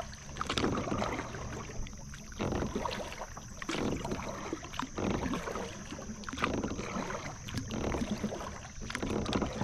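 Kayak paddle strokes in calm water: the blades dipping and pulling with splashes and drips, about one stroke every second and a half.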